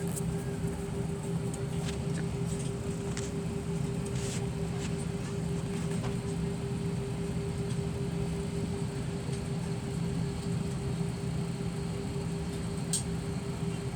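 Airliner cabin noise: a steady engine and ventilation drone with a constant humming tone. A single brief click near the end.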